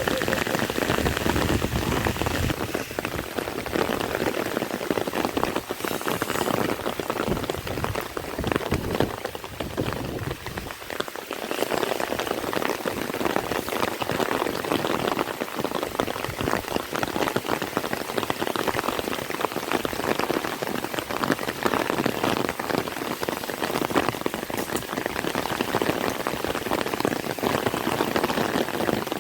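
Heavy rain falling steadily: a dense hiss of many close drop impacts that eases briefly about ten seconds in.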